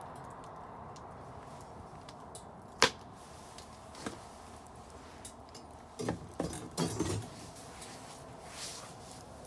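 Bonfire burning with a steady hiss and faint crackling. There is one sharp loud pop about three seconds in, a smaller one a second later, and a short run of knocks and rustles around six to seven seconds, like wood shifting in the fire.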